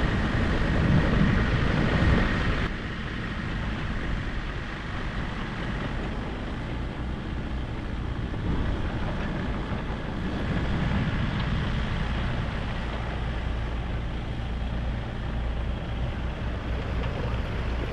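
Heavy truck engine running under load as the truck works its way through mud, with a steady low drone; it drops suddenly in loudness about three seconds in.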